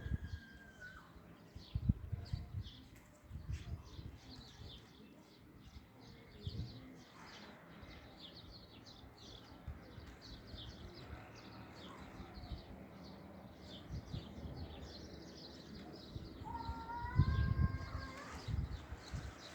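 A flock of wild birds at a feeding spot, chirping in rapid, overlapping short calls, with a longer whistle-like call near the end. Low thumps come and go, loudest about two seconds in and near the end.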